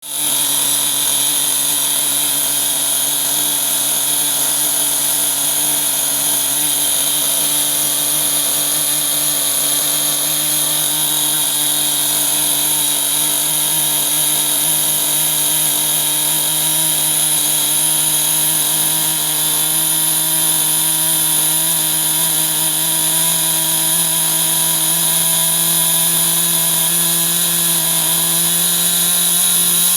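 Small two-stroke glow (nitro) model engine running steadily at high revs, with a buzzing, chainsaw-like note.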